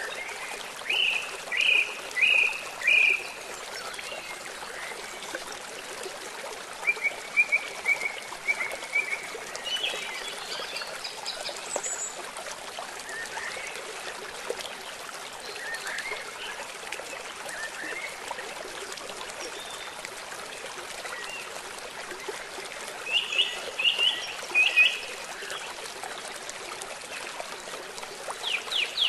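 Steady rush of flowing river water, with birds chirping over it: a run of four short chirps about a second in, a string of quicker notes around seven seconds in, and another cluster of short chirps late on.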